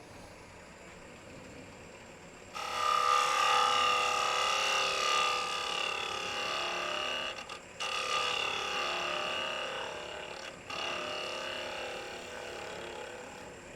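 Turning tool cutting across the face of a spinning wooden block on a wood lathe, flattening it: a steady scraping cut that starts about two and a half seconds in, with two short breaks, at about eight and about ten and a half seconds, between passes.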